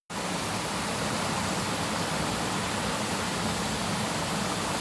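Steady rush of flowing water in a rice-field irrigation channel, cutting in suddenly at the start and holding even throughout.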